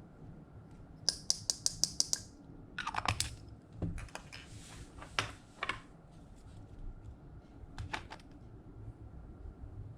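Slime being worked by hand: a quick run of sharp clicking pops about a second in, then softer squishing sounds and a couple more clicks near the end.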